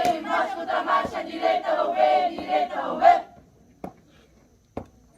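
A group of young voices chants a drill cadence in unison and ends on a loud shout about three seconds in. Two sharp single knocks follow, about a second apart.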